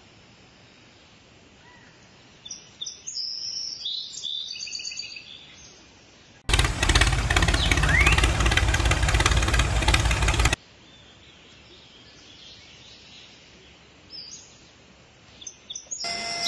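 Birds chirping a few times over faint outdoor background. In the middle, a loud rush of noise lasts about four seconds and starts and stops abruptly. Just before the end, a steadier whine with clicks sets in.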